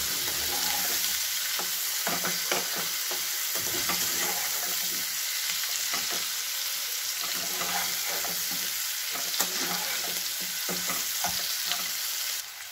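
Potato wedges and sliced onions sizzling in hot mustard oil in a non-stick kadai, with a metal spatula stirring and scraping through them in short strokes. The sizzle drops quieter near the end.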